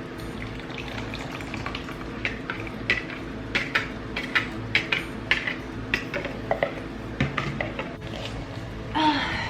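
A utensil stirring dry ingredients in a mixing bowl, with irregular clinks and scrapes against the bowl. A brief, louder pitched sound comes near the end.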